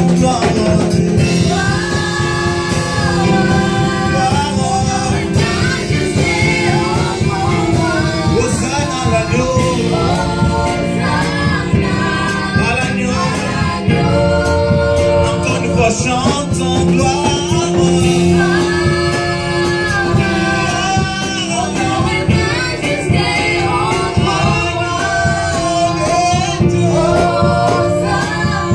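Church choir singing gospel worship music with band accompaniment and a steady beat.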